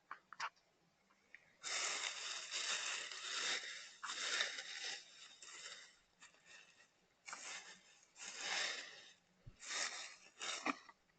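Several bursts of rustling and crunching noise with sharp clicks among them: the longest lasts about four seconds, followed by two shorter ones.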